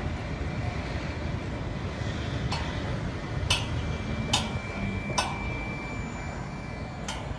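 Steady low rumbling background noise with a handful of short sharp clicks or knocks, about a second apart.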